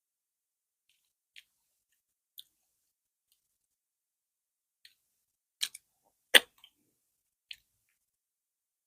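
Eating sounds from a mouthful of fufu and okra soup: a handful of short, separate wet mouth clicks and smacks, with the loudest a little after six seconds in, between stretches of silence.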